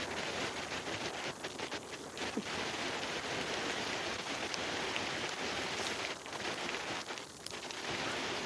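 Steady rain falling during a storm: an even hiss of rain with many small drop ticks.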